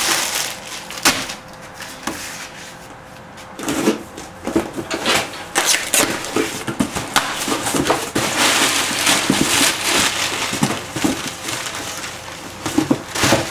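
Packaging being handled and opened: plastic and cardboard rustling and crinkling, with scattered knocks.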